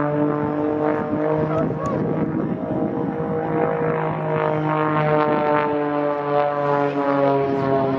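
Propeller aircraft engine droning steadily overhead, its pitch shifting slightly a few times as it flies.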